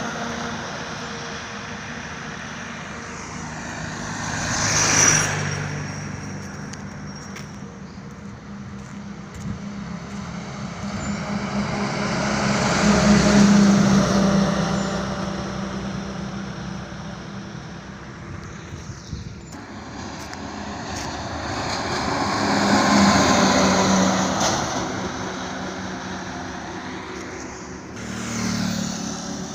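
Highway traffic over a steady low engine hum, with vehicles passing in four swells that rise and fall, the loudest about halfway through and two-thirds of the way in.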